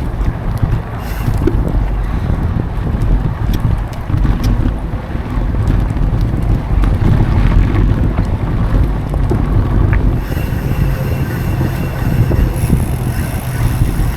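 Wind buffeting the action camera's microphone on a moving mountain bike, a loud low rumble, with scattered clicks and rattles from the bike rolling over the dirt trail.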